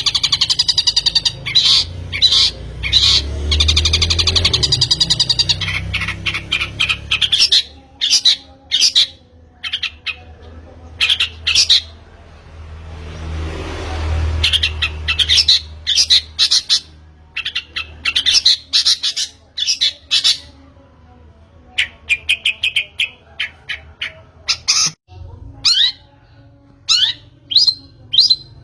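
Long-tailed shrike (pentet) singing: harsh, buzzy squawks and rapid chattering runs, with sharper short notes towards the end.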